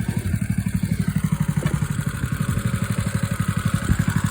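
Engine idling steadily while warming up after a cold start, with an even, fast pulsing beat; two faint knocks come through about a second and a half in and near the end.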